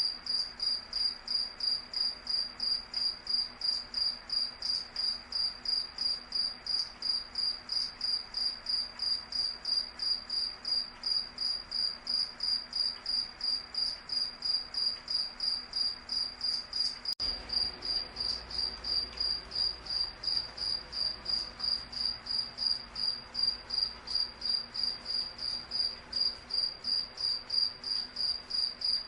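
Cricket chirping in a steady, even rhythm of about two to three high-pitched chirps a second, with a single faint click about two-thirds of the way through.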